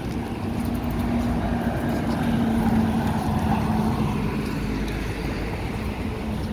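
An engine passing by: a steady hum that grows louder toward the middle and fades near the end, over wind buffeting the microphone.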